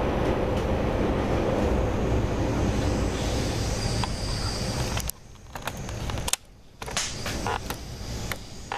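Steady rumble and hiss of a moving train heard from inside the carriage. About five seconds in, the sound drops out abruptly twice, with a few sharp clicks.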